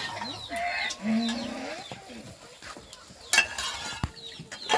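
Farm animals calling in short, scattered bursts, with a sharp knock a little over three seconds in.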